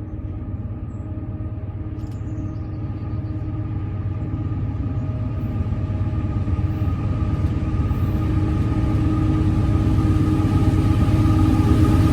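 A CSX GE AC4400CW diesel-electric locomotive approaches at the head of an empty coal train. Its 16-cylinder diesel drone and low rumble grow steadily louder as it nears.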